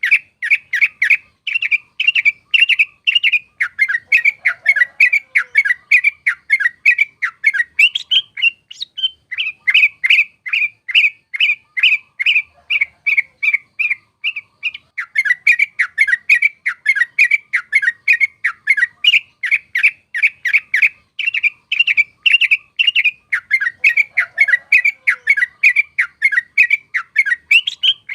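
Yellow-vented bulbul (trucuk) singing a fast, rolling run of short chattering notes, about four or five a second, with only brief pauses.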